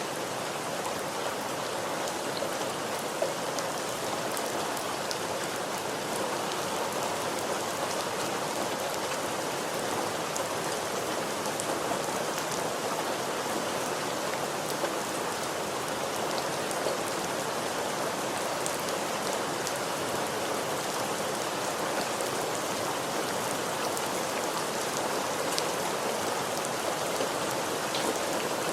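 Steady rain falling, an even hiss of many drops with scattered sharper drop ticks on a hard surface.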